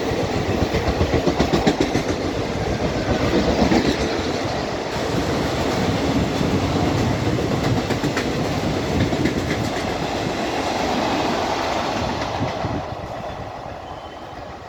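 Indian Railways express train passing at speed: coaches rumbling with a clickety-clack of wheels over the rail joints, fading away near the end.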